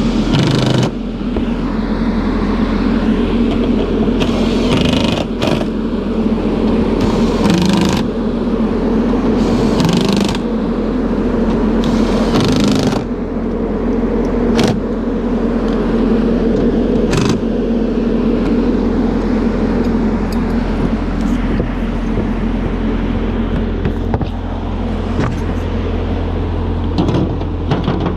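Ashok Leyland bus engine running at a steady idle. Several brief rushes of noise break over it in the first half.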